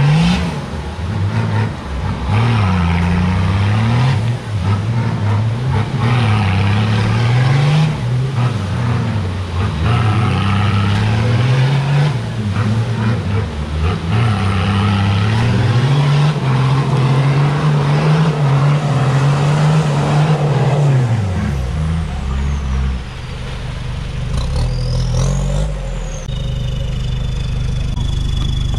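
Off-road 4x4 engine revving up and down again and again while driving through deep mud. About 22 seconds in it drops to a lower, steady running.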